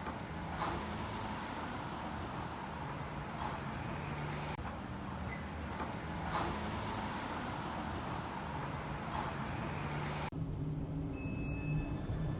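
Steady road traffic noise with a low hum, changing abruptly twice as the recording cuts.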